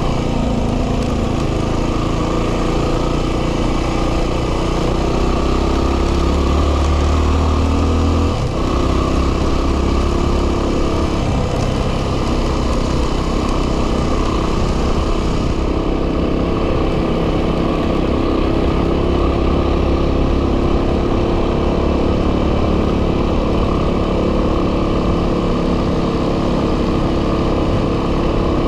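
Yamaha WR250R single-cylinder four-stroke dirt bike engine running under way at a steady pace, with heavy wind noise on the microphone. About eight seconds in the engine note dips briefly and settles at a new pitch.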